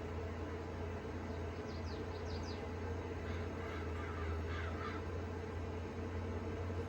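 Steady low engine drone of the working crop sprayer, with a few short high bird chirps about two seconds in and a run of crow caws in the middle.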